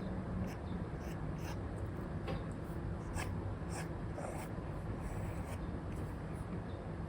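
Apple Pencil nib scratching and tapping on an iPad's paper-like matte screen film in short, irregular strokes, over a steady low background noise.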